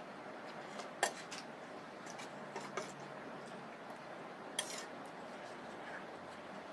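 Eating utensils clinking against a dish of noodles: a few separate sharp clinks, about a second in, near three seconds and again past four and a half seconds.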